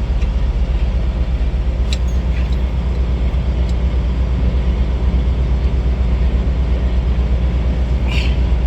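Semi-truck's diesel engine idling steadily, a constant low rumble, with a few faint clicks over it.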